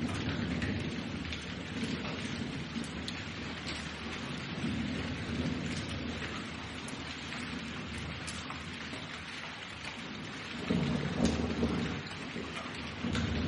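Thunderstorm: steady rain with scattered individual drop hits, over low rolling thunder that swells louder about eleven seconds in.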